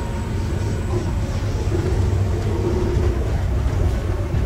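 Passenger train running at speed, heard from inside the carriage: a steady low rumble of the wheels on the track, with a faint steady whine above it.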